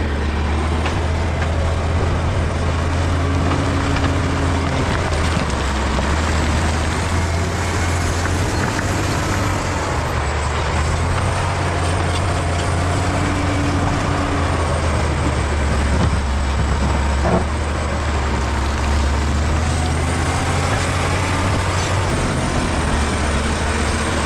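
Bulldozer's diesel engine running steadily with a deep, even hum, and a single sharp knock about two-thirds of the way through.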